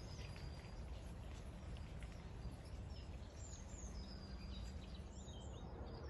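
Small birds chirping in short, high, gliding notes over a steady low background rumble.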